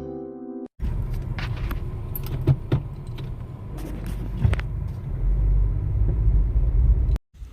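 A steady low vehicle rumble with scattered clicks and jangles, cutting off suddenly near the end. In the first second the last chord of guitar music fades out.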